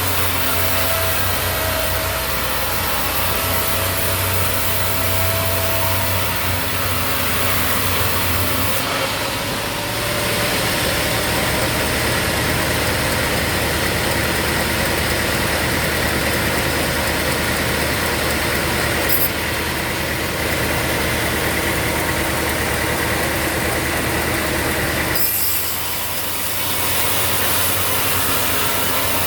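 Sawmill running, with a steady engine hum and a saw cutting through wood. The sound changes abruptly about 9 s in and again near 19 and 25 s.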